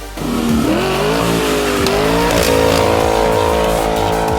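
Ford 7.3-litre gas V8 through a Flowmaster 50 Series true dual exhaust, accelerating: the exhaust note climbs in pitch over the first second, eases briefly, steps up again about halfway through, then holds steady at higher revs.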